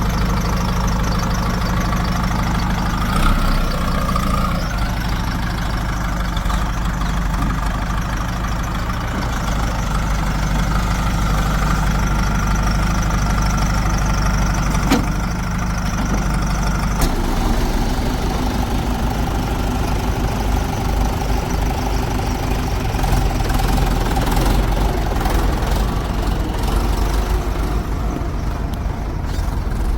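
Heavy diesel engine of farm or earth-moving machinery running steadily. Its note changes abruptly about halfway through, with a single sharp click shortly before.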